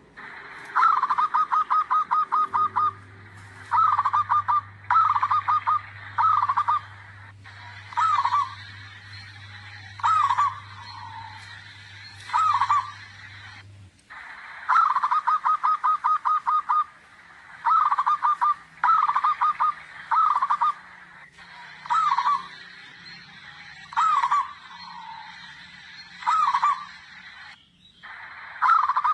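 Zebra dove (perkutut) song: phrases of quick, staccato cooing notes repeated every second or two.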